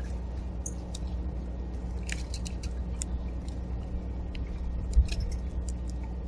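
Animals at a backyard bird feeder: scattered short, high clicks and chips over a steady low hum, with a single thump about five seconds in.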